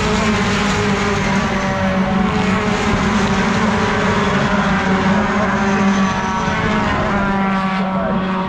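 Racing pickup truck engine running hard at high revs, holding one steady note with small dips in pitch.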